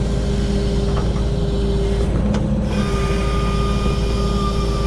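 1974 Kenworth self-loading log truck's diesel engine running steadily while its loader handles a log, with a thin high steady whine joining about three seconds in.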